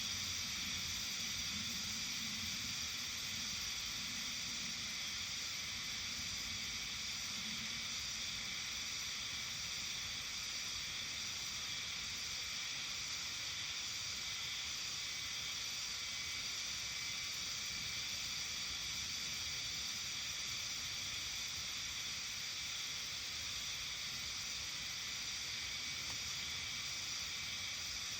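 Early-summer evening ambience of a Japanese mountain village: a steady, high-pitched, hiss-like chorus that does not change, with a faint low hum that fades out about eight seconds in.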